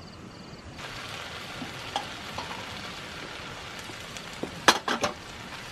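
Food sizzling in a pan, a steady hiss that starts up about a second in. Near the end come a few sharp clinks, the loudest a little before the last second.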